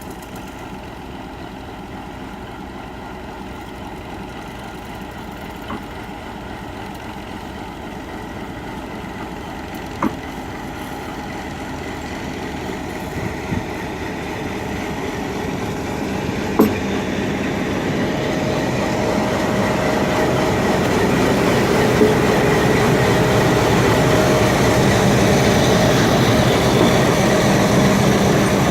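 A diesel-hauled passenger train pulling out, its locomotive engine and the rumble of the coaches on the rails growing steadily louder, with a few sharp knocks along the way.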